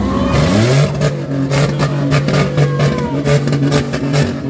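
A stripped derby car's engine revs up sharply in the first half second and is then held at high revs, loud and rough, with a rapid irregular crackle running through it.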